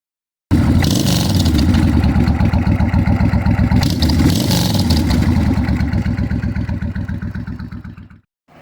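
Suzuki VS1400 motorcycle's V-twin engine running with a loud, lumpy pulse, throttle blipped twice, then trailing off before it cuts off near the end.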